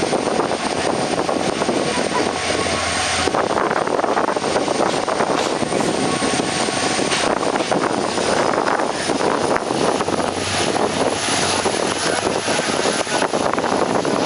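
Express train running at speed, heard from on board an ICF passenger coach: steady noise of wheels on rail and rushing air. The sound shifts and fills out about three seconds in.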